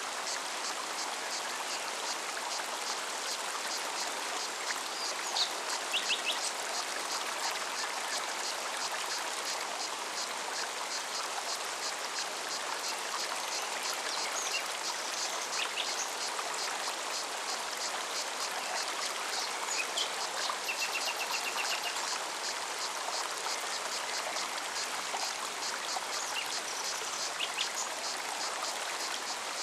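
Mountain forest stream running steadily, with cicadas singing in a fast, even pulse. A few short bird chirps come through, with a brief trill about two-thirds of the way in.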